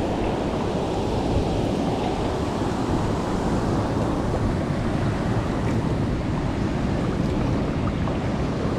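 Steady rushing of water pouring over a canal overflow.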